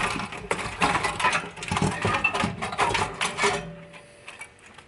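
Dense, irregular metallic clicking and rattling as the parts of a stereo receiver are worked loose and handled while it is dismantled. The noise dies down to a few scattered ticks after about three and a half seconds.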